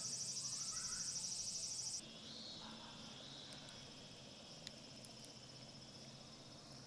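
Insects chirping in a loud, fast-pulsing high trill that cuts off suddenly about two seconds in, leaving a fainter steady insect drone with a few small clicks.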